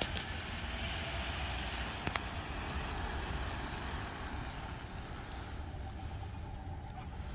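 A vehicle engine running steadily with a low rumble, with a couple of light clicks, one about two seconds in.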